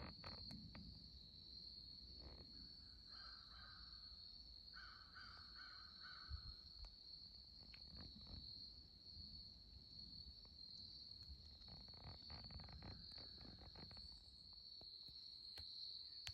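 Faint evening insect chorus, a steady high-pitched trill of crickets, with a crow cawing in the distance in two short bouts about three and five seconds in.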